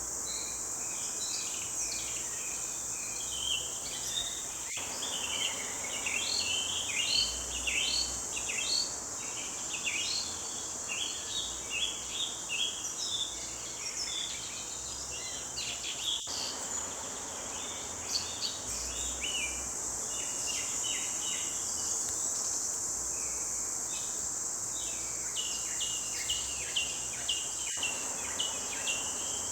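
Forest birds chirping and singing in quick, overlapping phrases over a steady high-pitched insect drone.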